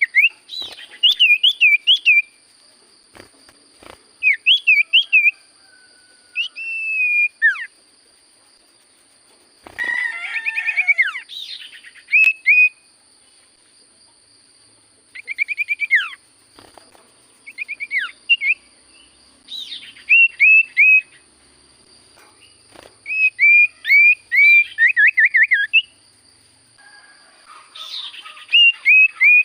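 Iora (cipoh) singing: short bursts of rapid, clear whistled notes, each note hooking downward, repeated every few seconds. A faint steady high whine runs underneath.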